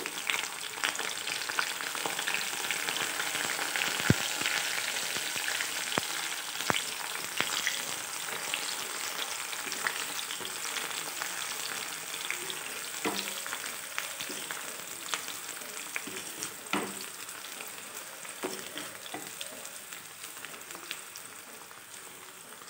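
Sliced onions and dried red chillies sizzling and crackling in hot oil in an iron karahi, stirred with a wooden spatula that now and then knocks against the pan. The sizzle slowly grows quieter.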